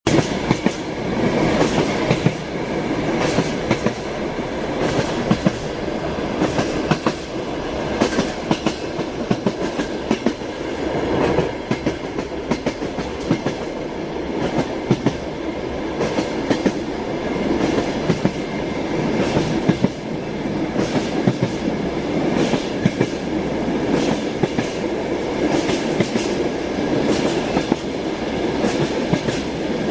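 Passenger train running at speed: a steady rumble of the carriage with the repeated clickety-clack of the wheels over rail joints, heard from inside the carriage.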